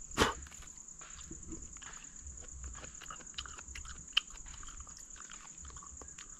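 Wet chewing and lip-smacking as ripe jackfruit bulbs are eaten, with one louder sharp sound just after the start and scattered small ticks. A steady, high-pitched insect drone runs underneath throughout.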